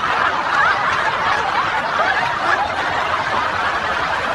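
A group of people laughing together, many voices overlapping in a steady stream of chuckles.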